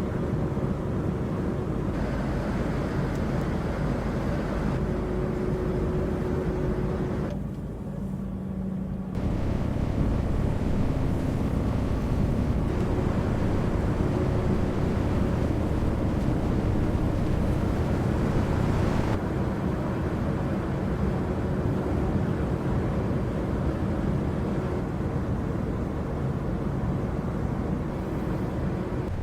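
Semi truck running: a steady low rumble with a faint hum, its character changing abruptly several times, with a duller, quieter stretch about a quarter of the way in.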